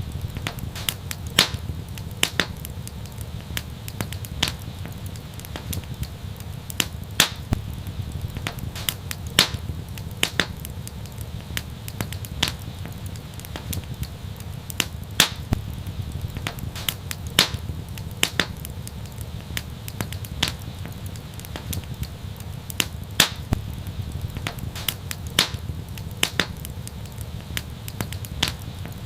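Wood fire burning with a steady low rumble and irregular sharp crackles and pops, several a second.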